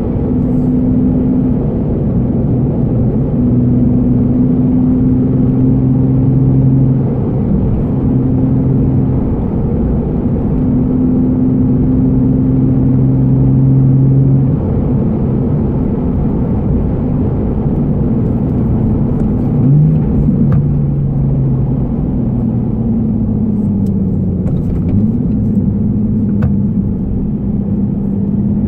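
Nissan Fairlady Z (Z34) 3.7-litre V6 heard from inside the cabin through a Be Free aftermarket exhaust while cruising gently. The engine drone holds a steady pitch for several seconds at a time over a constant road rumble. Its pitch glides briefly about twenty seconds in, then dips and rises again near the end.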